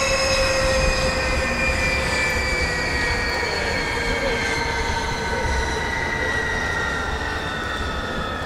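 Kawasaki T-4 jet trainers flying past, their turbofan whine a set of high tones gliding slowly down in pitch over a steady rumble as the jets draw away.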